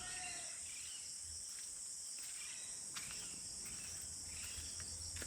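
Steady, high-pitched evening chorus of insects such as crickets, with faint scattered chirps and a few soft clicks.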